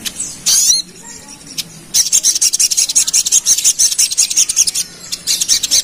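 Sogon sunbird singing in rapid 'ngerap' style: a short loud call about half a second in, then from about two seconds a fast, dense run of high-pitched chattering notes that breaks briefly near the end and starts again.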